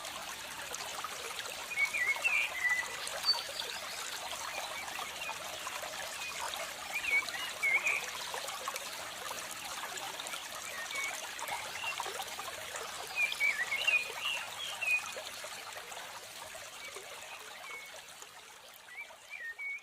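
Water trickling steadily, with short clusters of high bird chirps every few seconds; the sound fades down near the end.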